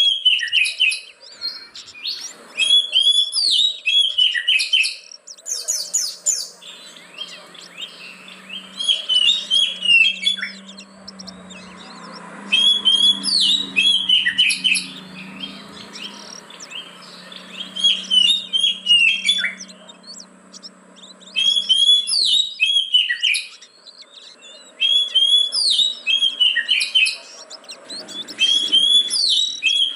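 Oriental magpie-robin (kacer) singing loudly in repeated bouts of varied, quickly gliding whistled phrases, each bout a few seconds long with short pauses between.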